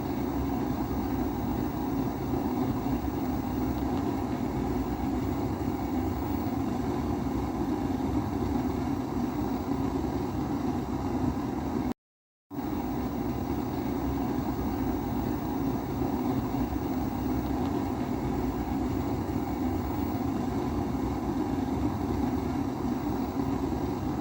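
Kerosene pressure stove (Primus-type burner) burning with a steady low rushing flame. It cuts to silence for about half a second midway, then resumes unchanged.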